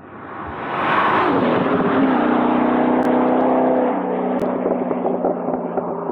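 C6 Corvette V8 through a Borla S-Type exhaust on a pass. The exhaust note swells quickly over the first second into a loud, steady drone, then drops a little in loudness and pitch about four seconds in.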